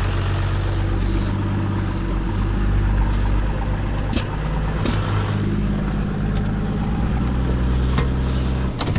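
Off-road 4x4's engine running under way, its note shifting up and down a few times with engine speed. A few sharp knocks come through about four, five and eight seconds in.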